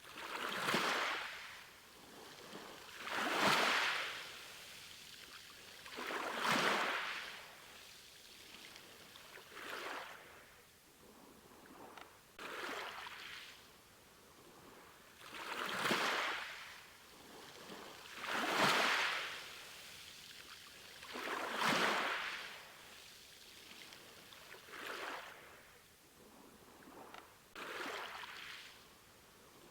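Sea waves washing onto the shore, each swell of surf rising and falling away, about one wave every three seconds.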